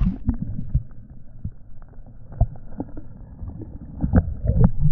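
Water sloshing and irregular knocks and clicks, heard muffled with the microphone underwater. The high end is suddenly cut off and a low rumble remains.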